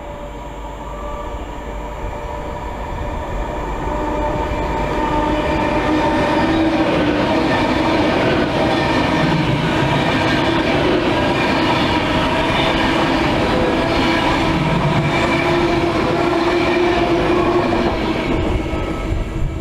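Class 390 Pendolino electric train passing through a station at speed. It grows louder over the first several seconds as it approaches, then gives a steady loud rush of wheels on rail with a few held tones as the carriages go by.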